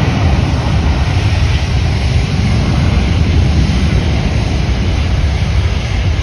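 Airliner's jet engines, a loud steady rush with a deep rumble underneath.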